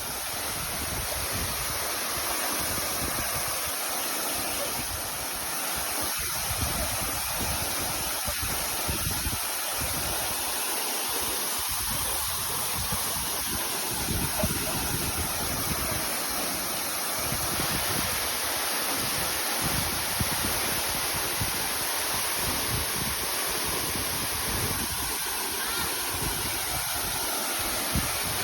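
Steady, even rush of a 33-metre waterfall heard up close, with irregular low buffeting on the microphone.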